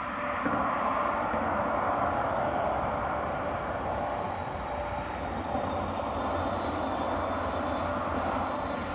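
A Shinkansen train passing through a tunnel: a loud, steady rushing noise that swells in about half a second in and holds. The tunnel's train-approach warning tones sound faintly beneath it.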